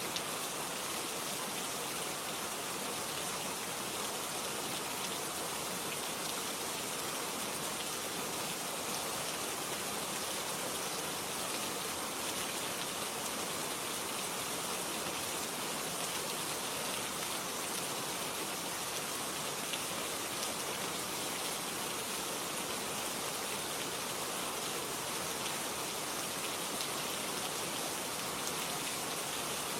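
Steady rain pattering on a surface, an even hiss of many drops with no breaks.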